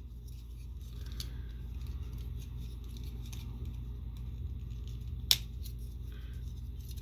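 Plastic parts of a Transformers action figure clicking as it is handled and folded, with one sharp click about five seconds in.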